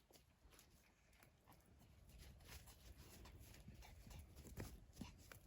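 Near silence: faint scattered clicks and crackles over a low background rumble.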